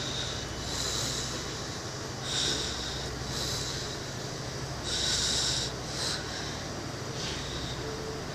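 Irish Rail Intercity passenger train moving slowly past the platform: a steady low diesel hum with about six short, irregular hissing bursts.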